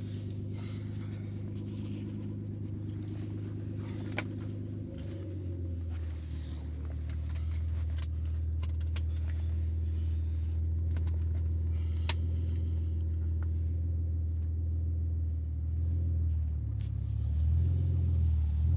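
1998 Audi A4 2.8 quattro's V6 engine running with a loud exhaust leak as the car pulls away. The engine note changes about five seconds in, then again near the end.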